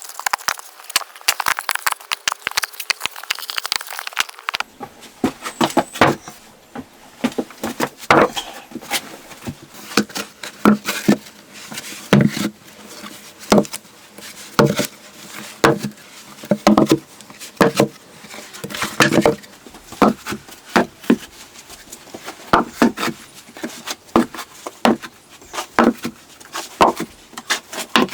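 Repeated knocks of a tool striking wood, irregular, about one or two a second, each with a short hollow ring. For the first few seconds there is instead a dense fine crackling or scraping.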